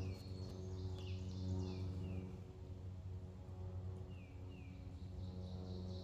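Wild birds calling outdoors: short downward chirps, often in pairs, with a higher trill about a second in and again near the end, over a steady low hum.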